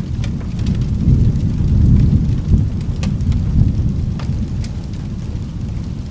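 Thunder rumbling low and continuously, swelling and easing, under steady rain, with scattered sharp clicks over the top.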